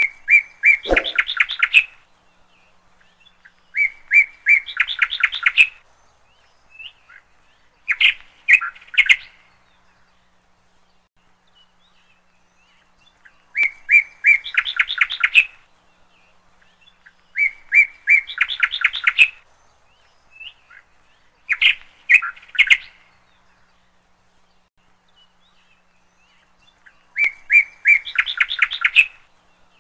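A bird chirping in short phrases, each a couple of notes followed by a quick chattering run, repeated every few seconds with pauses between the groups.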